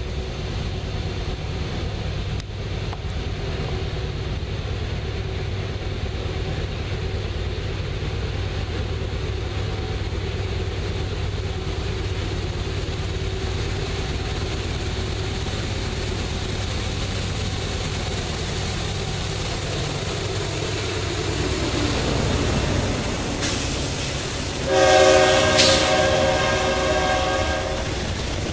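CSX freight train led by GE C40-8W diesel locomotives running toward and past, a steady low rumble that swells as the locomotives draw level. About 24 seconds in the locomotive horn sounds one blast lasting about three seconds, and the freight cars follow, rolling by.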